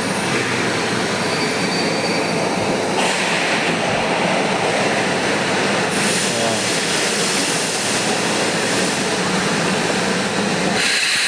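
A train running through a station platform with a steady rumble of wheels on rails and a brief faint high wheel whine about a second in. The rail noise drops away just before the end.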